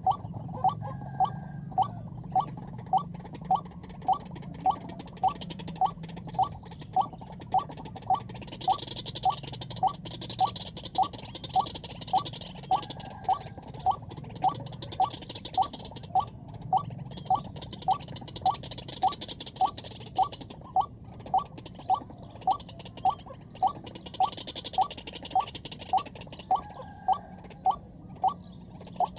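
White-breasted waterhen lure call: short croaking notes repeated in a steady, unbroken rhythm of about two a second. A steady high whine and hiss lie behind it.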